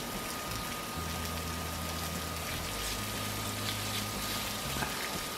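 Cornstarch-dredged chicken pieces shallow-frying in oil on a Blackstone flat-top griddle: a steady sizzle, with a metal spatula pushing and spreading the pieces across the steel.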